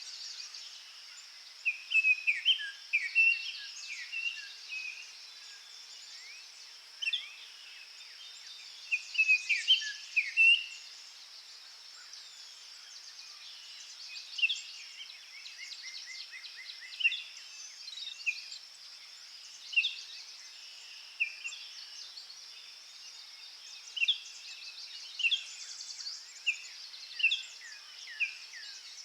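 Forest ambience: a steady high insect-like hiss with songbirds chirping in short, repeated notes, busiest about two seconds in and again around ten seconds, then singly every second or two.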